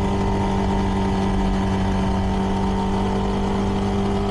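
CFMoto 300NK motorcycle's single-cylinder engine running at a steady, unchanging pitch through its stock exhaust while cruising, heard from the rider's helmet.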